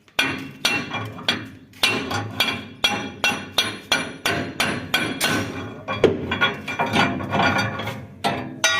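Repeated hammer blows on metal, about two a second, each with a short metallic ring: a stuck part on a combine harvester being knocked loose.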